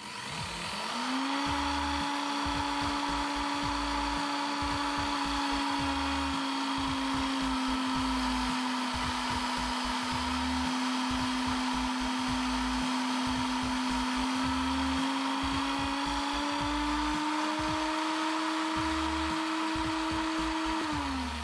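Drill's brushed universal motor, run by a TDA1085C speed-controller board, spinning up about a second in and running at a steady speed, rising slightly in pitch near the end and then winding down as it is switched off.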